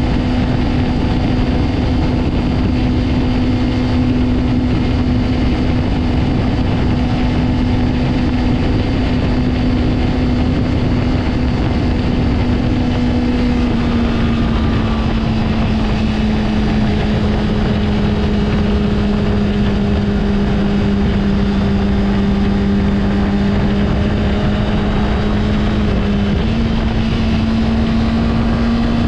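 Honda CBR600RR's 599 cc inline-four engine running at a steady, high engine speed. Its pitch dips slightly about halfway through, sags gently, then steps back up near the end.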